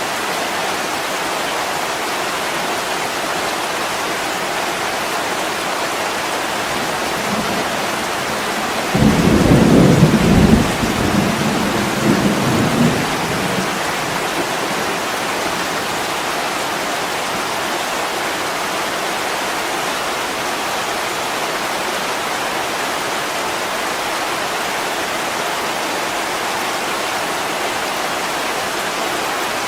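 Heavy rain beating steadily on a window pane. About nine seconds in, a roll of thunder breaks in suddenly, rumbles low for a few seconds and fades away.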